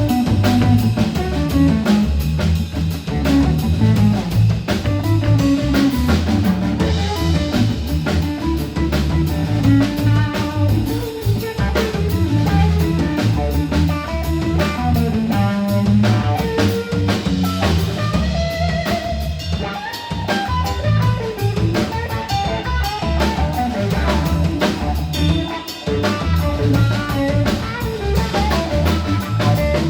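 Live blues trio playing an instrumental passage: guitar melody lines with bent notes over drum kit and a low bass part.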